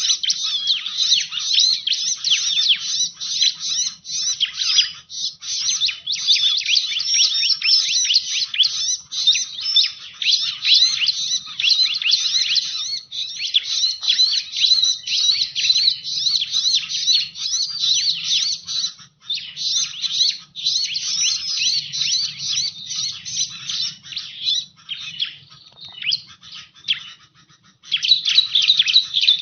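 Bar-winged prinia (ciblek) song played as a lure call: a dense, continuous stream of fast, high chirps and trills, with short breaks about two-thirds of the way through and near the end.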